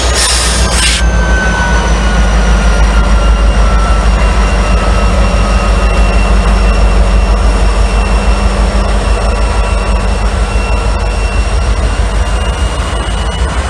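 Train rolling past close by: a heavy steady rumble with a thin high whine drifting slowly in pitch over it, and a short hiss about a second long at the start.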